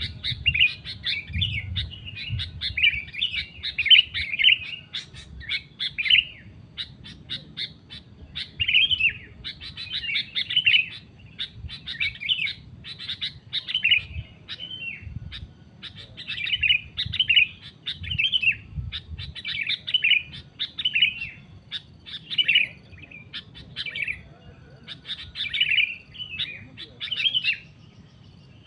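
Sooty-headed bulbuls calling: short, bubbly chirping phrases repeated about once a second without a break.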